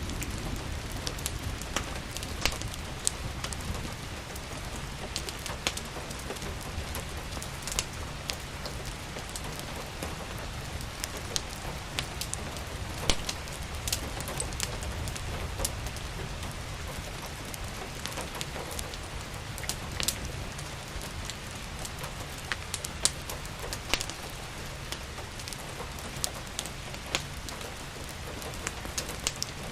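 Steady rain hissing, with a low rumble underneath and scattered sharp crackles and pops from a wood fire.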